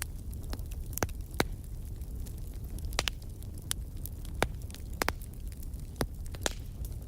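Wood fire crackling in a fireplace: a steady low rumble of flames with sharp, irregular pops and snaps, about a dozen, the loudest around a second in and near the middle.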